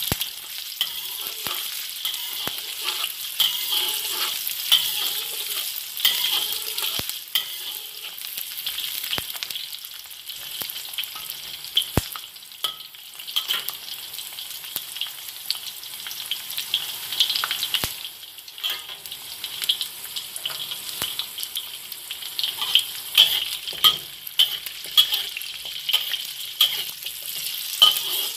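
Garlic cloves and sliced ginger sizzling in hot oil in a wok, stirred with a metal spatula that clicks and scrapes against the pan. The spatula strikes come thicker and louder in the last few seconds.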